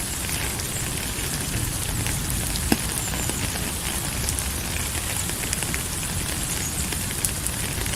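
Steady rain falling, with scattered drops ticking and one sharper tap about a third of the way in.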